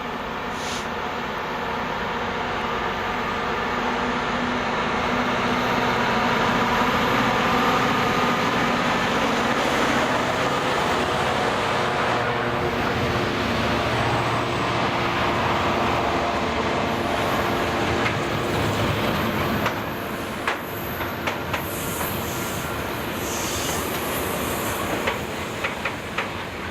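Freight train of loaded coal wagons rolling past with a steady rumble that swells over the first few seconds, then sharp wheel clicks over rail joints in the last several seconds.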